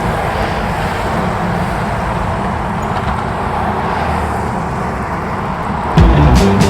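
Steady motor vehicle noise, a continuous rumble and road hiss. About six seconds in, loud rock music with sharp drum hits cuts in.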